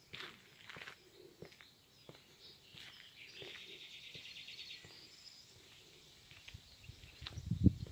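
Songbirds chirping outdoors, with a fast high trill in the middle. Near the end, a brief low thump is the loudest sound.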